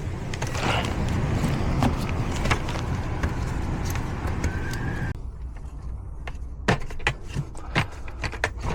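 A steady rushing noise with a low hum, like equipment running, that cuts off abruptly about five seconds in. After it, scattered sharp clicks and light knocks of handling over a fainter hum.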